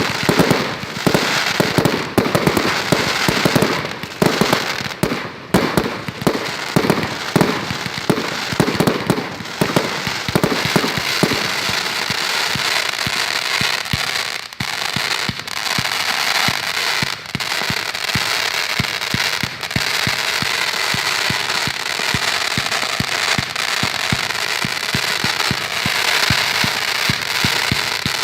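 Fireworks going off: a rapid run of booms, several a second, for about the first ten seconds. Then steady crackling with a few separate sharp bangs.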